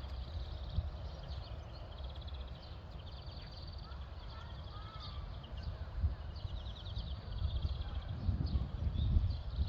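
Small birds calling repeatedly in quick pulsed trills, over a low uneven rumble with irregular soft thumps, such as wind on the microphone and footsteps on a garden path.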